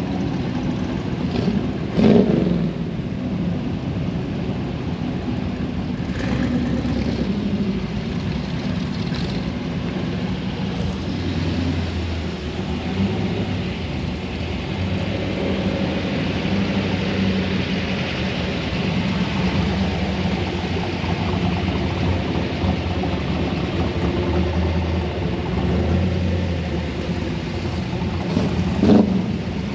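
Truck engines running, with a short louder burst about two seconds in and another near the end.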